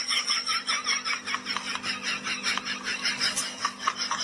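A person laughing in quick, even bursts, about five a second.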